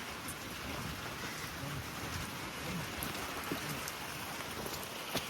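Steady rain falling, an even hiss of drops, with one sharp tap near the end.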